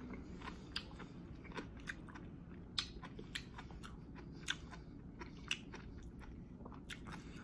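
A man chewing a mouthful of basil hoisin chicken with his mouth closed: quiet, irregular small clicks and smacks, a few of them louder.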